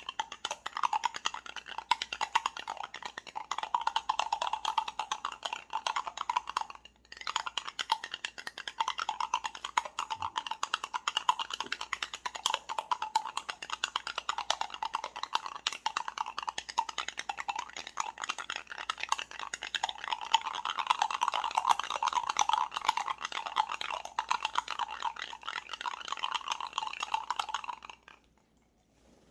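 Iced coffee being stirred: a spoon and ice clinking and rattling rapidly against a glass, with a short pause about seven seconds in, stopping about a second before the end.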